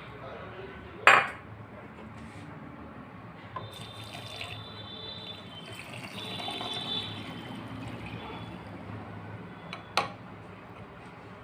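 Liquid running or pouring into a container, with two sharp clinks: one about a second in, one near the end.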